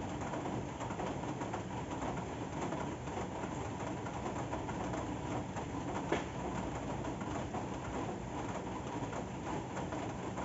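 Steady rain falling, with many small drips and taps and one sharper tap about six seconds in.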